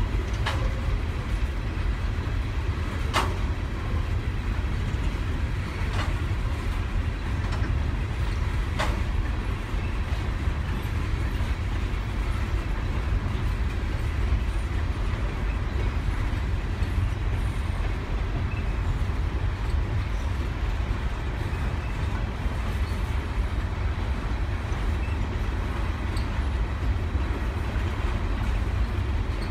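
Long freight train of mostly empty coal cars rolling past: a steady low rumble of wheels on rail, with a few sharp clicks in the first ten seconds.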